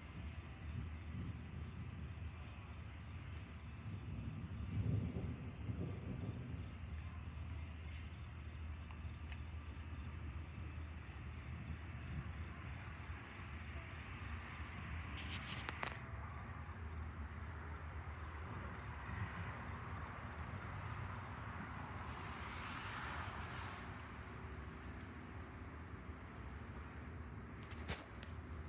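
Crickets trilling steadily in one continuous high-pitched tone. A brief low rumble comes about five seconds in, and there are two short clicks, one midway and one near the end.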